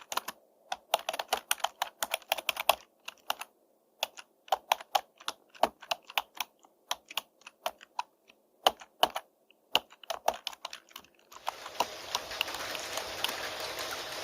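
Typing on a computer keyboard: quick runs of keystroke clicks broken by short pauses. About eleven seconds in the typing stops and steady rain takes over.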